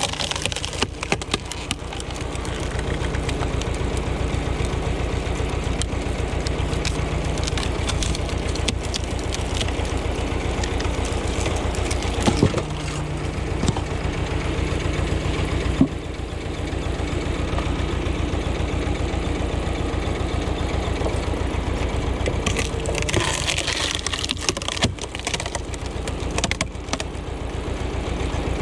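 Ursus tractor's diesel engine running steadily, with a few sharp cracks and creaks of wood being split.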